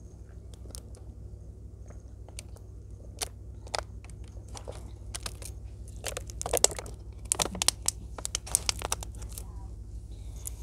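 A plastic water bottle crinkling and crackling as it is handled and drunk from: a scatter of sharp crackles and clicks, busiest and loudest from about three to nine seconds in, over a steady low hum.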